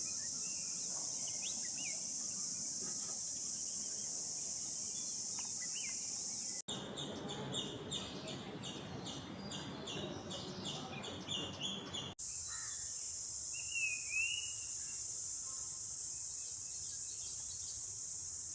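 Outdoor ambience of a steady high insect drone with scattered short bird chirps. In the middle stretch a pulsing insect chorus takes over, at about three pulses a second. About two-thirds of the way through, a single short down-and-up bird call sounds.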